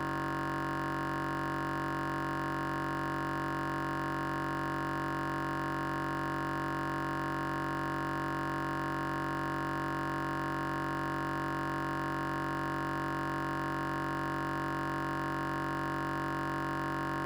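Steady electronic drone: a held chord of several tones that never changes, with no beat or rhythm.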